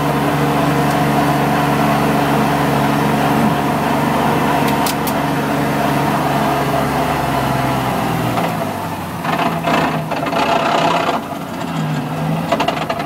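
Drift car's engine running steadily at low speed, heard from inside the cabin, then dropping to a lower idle about eight seconds in as the car stops. This is followed by a patch of knocks and rustling inside the car.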